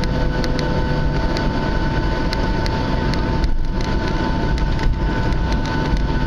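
Boeing 737 jet engines heard from inside the cabin: a steady rumble with two steady whining tones, and light ticks a few times a second.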